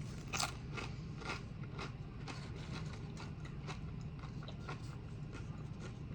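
Eating sounds close to the microphone: chewing, with scattered faint clicks and crunches, over a low steady room hum.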